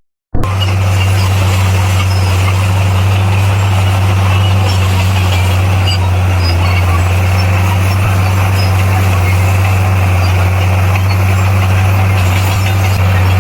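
Heavy diesel engine of a bulldozer running steadily at a constant speed with a deep, even drone. The sound drops out for a split second at the very start.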